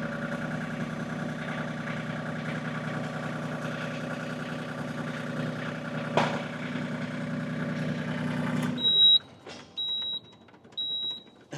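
LS MT226 compact tractor's three-cylinder diesel engine running steadily at about 1200 RPM, with one sharp knock about six seconds in. Near the end the engine note stops abruptly and a high beep repeats about once a second.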